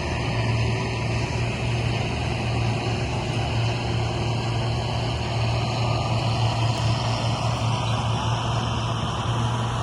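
Combine harvester running steadily at an even engine pitch, with a constant low hum and machinery noise.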